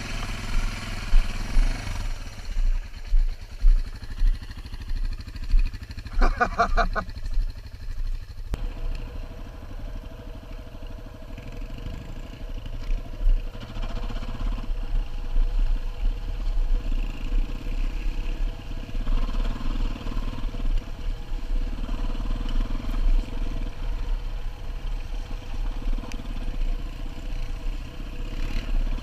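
Dual-sport motorcycle engine running as the bike is ridden, with heavy low buffeting on the microphone throughout. A short pulsing, higher-pitched buzz comes about six seconds in.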